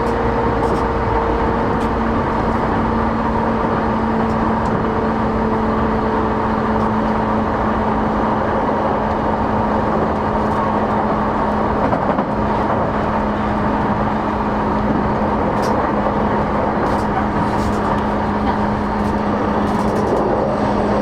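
Interior running sound of an E233 series 8000 electric commuter train moving at a steady speed: an even rumble of wheels on rail with a constant hum, and a few faint ticks in the second half.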